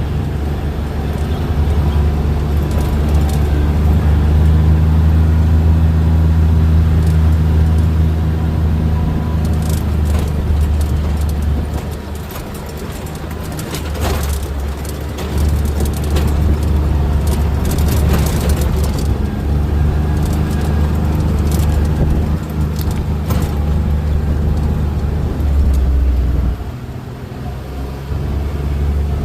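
A vehicle engine running with a steady low drone that eases off briefly twice.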